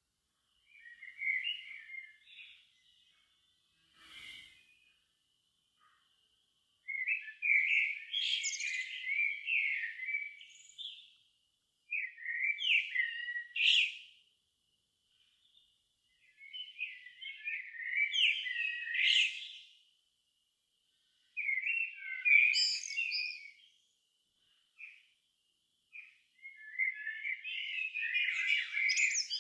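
A songbird singing in warbling phrases of two to four seconds, separated by short pauses. A faint, thin, steady high note carries on between the phrases, and there is a single faint click about four seconds in.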